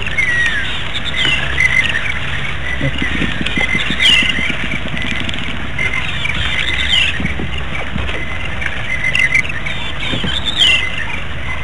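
Birds calling, with a falling whistled note repeated every few seconds and scattered chirps, over a steady low rumble.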